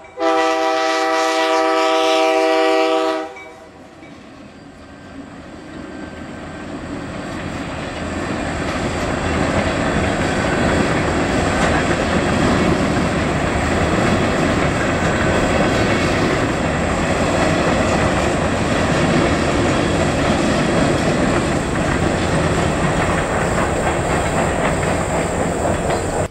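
EMD F-unit locomotive's multi-chime air horn sounding a long blast that stops about three seconds in, then the freight train passing over the crossing: the noise builds for several seconds and settles into a steady loud rolling sound as covered hopper cars go by.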